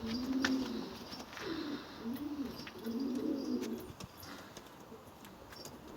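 Syrian Mawardi domestic pigeons cooing: about four low coo phrases in the first four seconds, then a quieter stretch, with scattered light clicks throughout.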